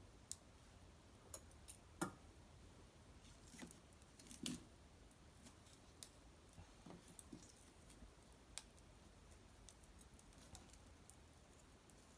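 Faint, irregular pops and crackles of a small wood fire of cedar branches and bark burning, about a dozen sharp snaps scattered over a low hiss, the loudest about two seconds in and again near the middle.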